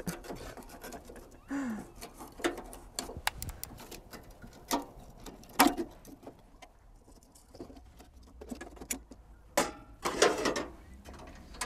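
Scattered small clicks and knocks of irregular timing, with a louder cluster near the end.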